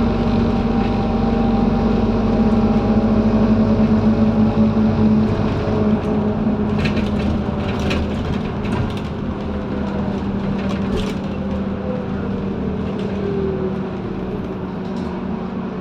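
Scania N230UD double-decker bus's five-cylinder diesel and drivetrain heard from inside the cabin, pulling steadily, then easing off about six seconds in with a slowly falling pitch. Sharp rattles and clicks come through several times during the second half.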